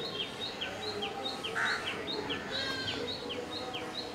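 A small bird chirping over and over, each call a short high note followed by a quick falling one, about twice a second, over faint outdoor background noise.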